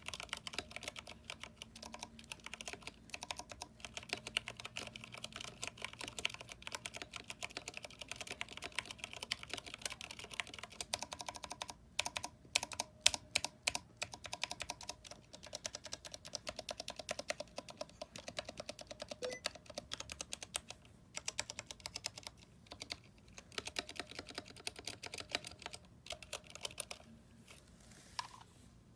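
Fast typing on a Vortex 10th Anniversary Edition mechanical keyboard with Cherry MX Brown switches and PBT keycaps: a dense run of key clacks. There is a short gap about twelve seconds in, followed by a few louder, separate keystrokes, and the typing thins out and stops near the end.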